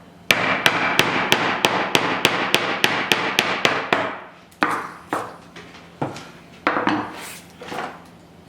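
A mallet tapping a wood chisel in a quick even run of strikes, about five a second, chopping waste out of a lap joint. After about four seconds the tapping stops and a few separate knocks follow, with scraping between them.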